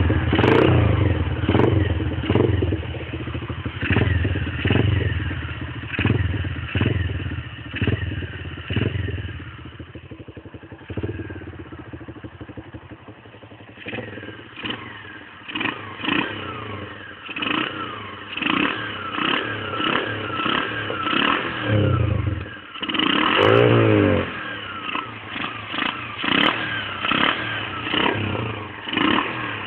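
Honda CG Fan motorcycle's single-cylinder engine, breathing through an aftermarket 'ronca' exhaust and a sport air filter, revved in repeated short throttle blips. It drops back to a steady idle for a few seconds near the middle, then the blips resume, with one longer rev about two-thirds of the way through.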